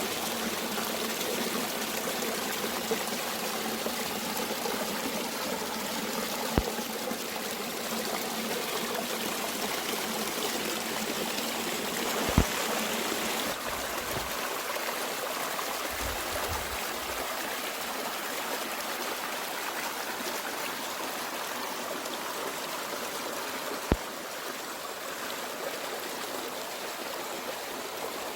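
Mountain stream running in a steady rush of water, with three brief sharp clicks along the way.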